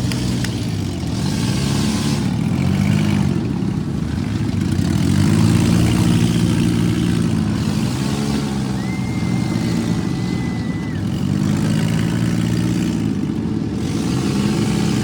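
Vehicle engine being driven, its pitch rising and falling again and again as it revs up and eases off. A thin high steady tone sounds for about two seconds around the middle.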